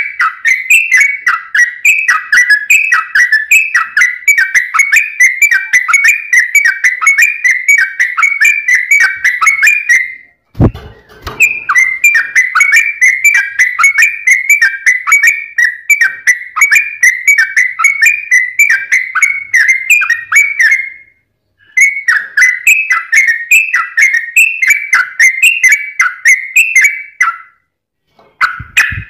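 Sooty-headed bulbul (trucuk) singing a fast, tightly packed run of short whistled notes, with brief pauses about ten seconds in, about twenty-one seconds in, and near the end. A short low thump falls in the first pause.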